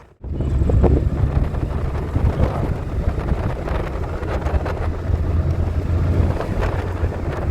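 A vehicle on the move: a steady low rumble with wind noise on the microphone.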